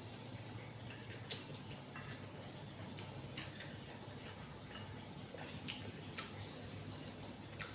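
Close-up mouth sounds of someone eating instant noodles: irregular wet clicks and smacks of chewing, a few sharper ones, over a low steady hum.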